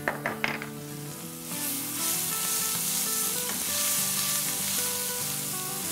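Ginger, garlic and green chili paste sizzling in hot oil as it is stirred around the pan with a plastic slotted spoon. The sizzle swells about a second and a half in and holds, with background music underneath.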